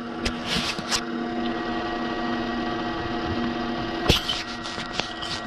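Wood lathe running with a steady hum. There are a few short scrapes and clicks in the first second and a sharp knock about four seconds in.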